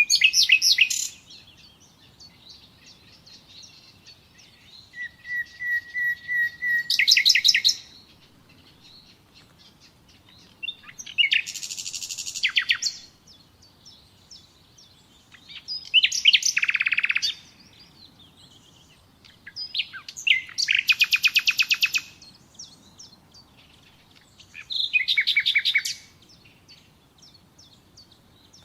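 Nightingale singing: about six separate phrases a few seconds apart, each a rapid run of repeated notes. One phrase opens with a long steady whistle about five seconds in that breaks into quickening notes.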